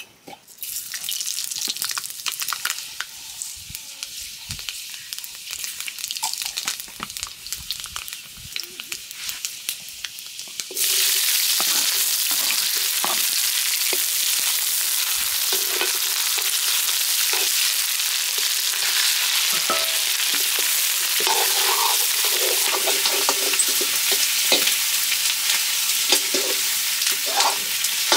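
Hot oil sizzling in a steel wok over a wood fire, with chopped onions frying in it. The sizzle suddenly gets louder about eleven seconds in, and a metal ladle scrapes and clinks against the wok as the onions are stirred.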